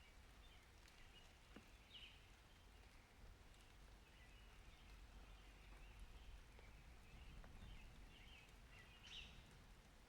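Near silence: faint outdoor ambience with a low rumble and scattered short, high chirps, two clearer ones about two seconds in and near the end.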